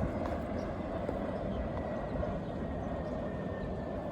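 Long Island Rail Road train running steadily: a continuous rumble with a faint high whine that sinks slightly in pitch.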